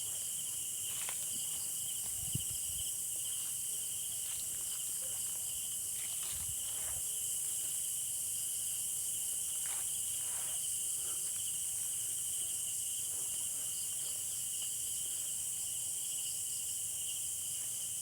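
Night insect chorus: a steady, finely pulsing trill with a high hiss above it, typical of crickets and other night insects. A few faint clicks and one low thump about two seconds in.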